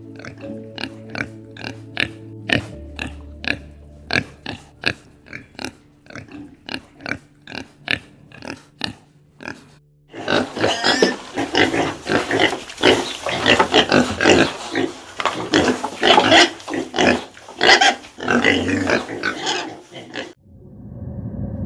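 Animal calls: short grunts repeated about twice a second over a steady music drone for the first half, then a denser, louder stretch of squealing and grunting that cuts off shortly before the end.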